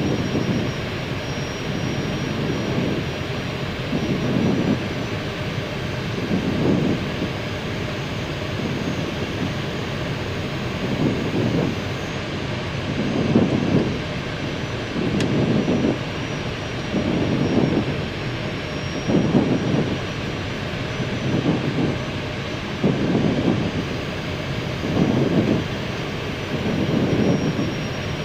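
Airbus A319 flight-deck noise on final approach, with the landing gear down and full flaps set: a steady rush of airflow and engine sound. Its low part swells and fades about every two seconds.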